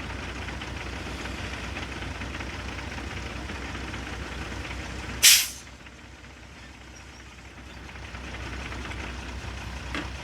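Heavy dump truck's diesel engine running, with one short, loud hiss of released air from its air brakes about five seconds in; the engine is quieter after it, then builds again.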